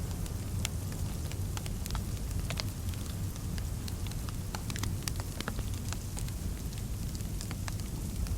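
Fireplace fire crackling: many irregular sharp pops and snaps over a steady low rumble.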